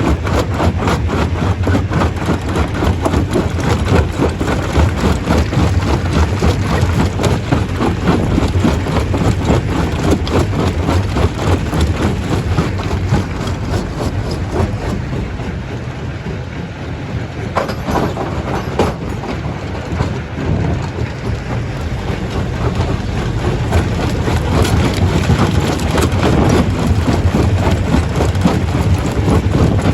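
Stone crusher running and crushing rock: a continuous rapid clatter of stones over a low machine rumble. The clatter eases somewhat about halfway through and then builds up again.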